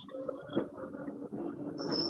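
Background noise with a steady hum, growing louder, coming through a participant's unmuted microphone on a video call.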